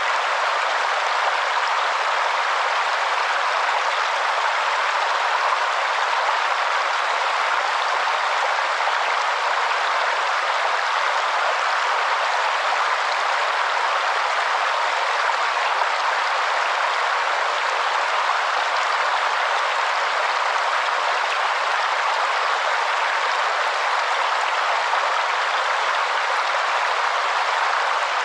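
Waterfall: steady, unbroken rush of falling water, with no low rumble.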